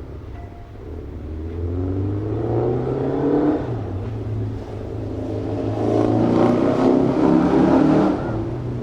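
Street traffic: car engines running, one rising in pitch as it accelerates, then a louder vehicle passing close from about halfway through before fading near the end.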